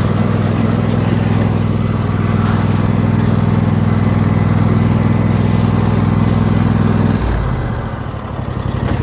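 Lawn mower engine running steadily; about seven seconds in its speed drops suddenly and it dips quieter for a moment, then keeps running at a lower, steady speed.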